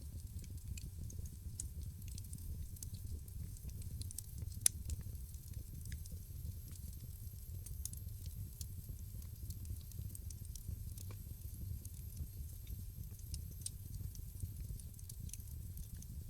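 Wood fire in a fireplace crackling, with many small irregular pops and snaps over a steady low rumble, and one sharper, louder pop about five seconds in.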